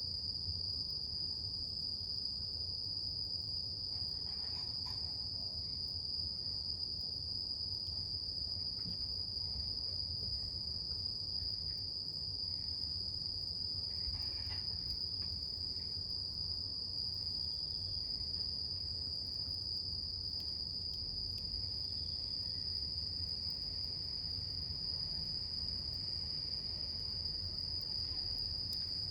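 Insects trilling in one steady, unbroken high-pitched note over a wood campfire, which gives a low, soft rumble and a few faint crackles.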